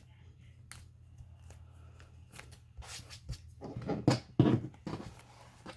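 Handling noises of craft work on a table: paper and materials rustling, with scattered clicks and a few louder knocks about four seconds in.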